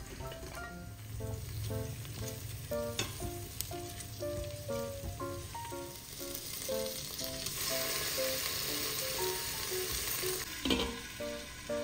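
Chopped shallots, garlic, ginger and tomato sizzling in hot oil in an electric pressure cooker's steel pot, the sizzle growing loud a little past halfway and easing off near the end, with a single knock just before it ends. Light background music with plucked notes plays throughout.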